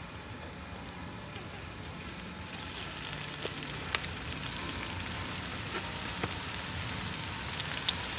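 Flour-dredged pork ribs sizzling in hot oil in an electric skillet as pieces are lowered in: a steady hiss with sharp pops and crackles that grow more frequent after about two and a half seconds.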